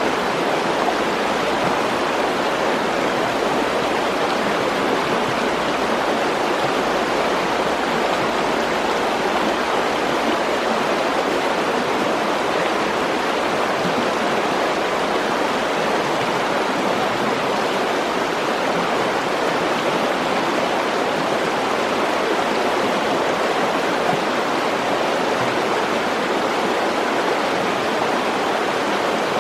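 Mountain stream rushing steadily over rocks, a constant loud wash of water.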